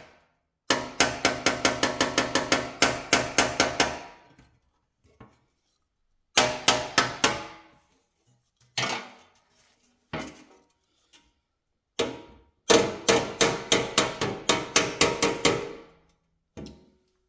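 Hammer blows straightening bent sheet-metal brackets on a band saw, each strike ringing. The blows come in quick runs of about five a second, with pauses and a few single strikes between the runs.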